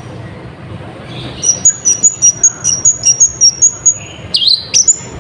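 Sunbird (kolibri ninja) singing: after a short pause, a fast run of sharp, high chirps at about three to four a second, then a couple of lower down-sweeping notes near the end. A steady low hum lies underneath.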